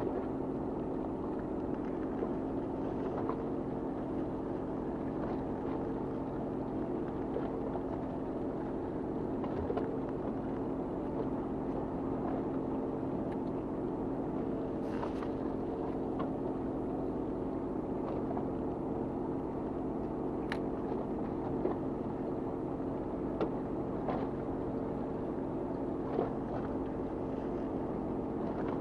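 Fishing boat's engine running steadily, a constant hum, with a few light clicks and knocks now and then.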